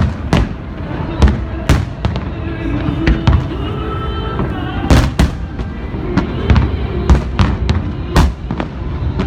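Aerial fireworks shells bursting in quick, irregular succession: about a dozen sharp bangs.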